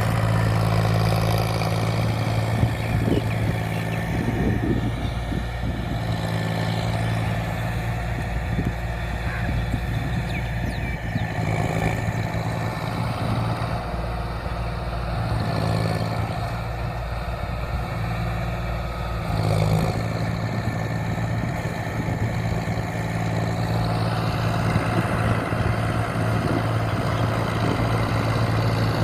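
Tractor engine running steadily, a low drone that holds its pitch throughout.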